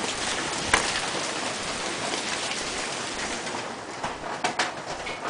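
Hailstones pelting down in a dense, steady clatter of many small impacts, with one louder knock about a second in. The downpour thins out near the end, leaving a few separate, sharper strikes.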